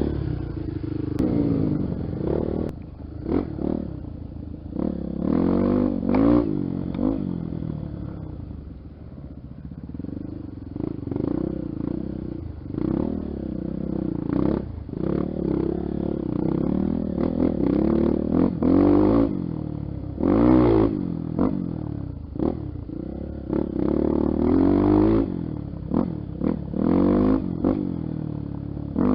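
Honda XR Tornado's single-cylinder four-stroke engine revving up and down over and over while riding a dirt trail, with frequent clattering knocks.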